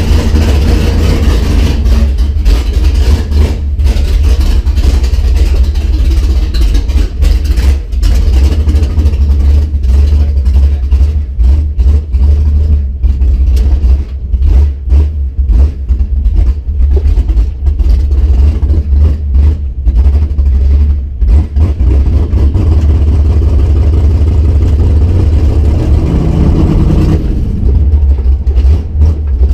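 Cammed, fuel-injected 351 Windsor V8 breathing through forward-facing headers, heard from inside the Fox-body Mustang's cabin: a loud, uneven low rumble at low revs as the car moves off, with a brief rise in revs a little before the end.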